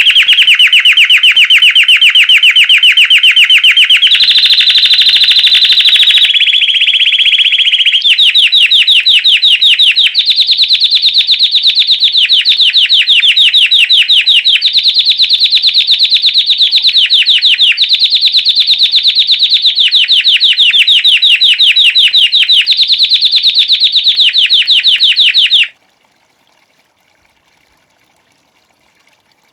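White Belgian canary singing a long run of rapid trills, each held for about two seconds before switching to a new trill at a slightly different pitch. The song stops suddenly near the end.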